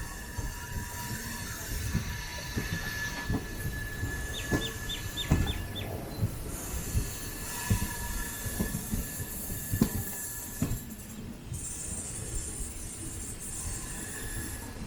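DEMU train running slowly through a station yard: irregular knocks of the wheels over rail joints and points, with a thin steady squeal. A quick run of five short high chirps comes about five seconds in.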